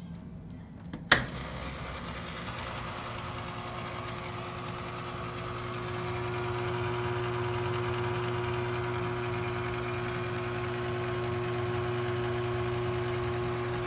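A sharp click about a second in, then the Kenmore/Whirlpool washing machine running with a steady motor hum and a constant tone, growing a little louder about six seconds in.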